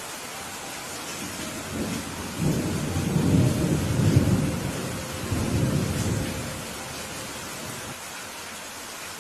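Steady rain with a roll of thunder that builds about two seconds in, rumbles for several seconds and fades away.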